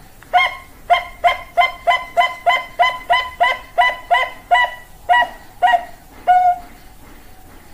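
Zebra dove (Bangkok perkutut) cooing: a run of about sixteen short notes, about three a second, spacing out toward the end.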